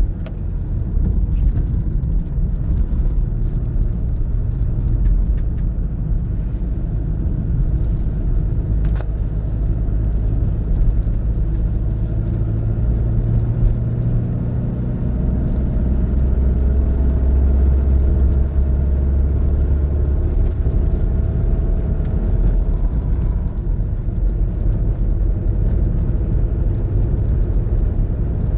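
A car being driven: steady engine and tyre rumble, with the engine note shifting up and down in pitch several times.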